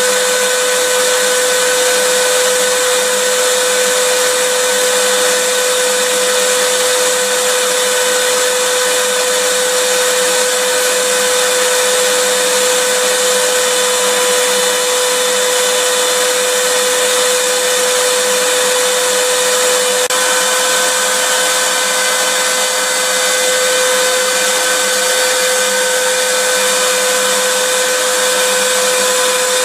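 Electric vacuum cleaner running steadily: a constant motor whine over an even rush of air. The whine shifts slightly in pitch about two-thirds of the way through.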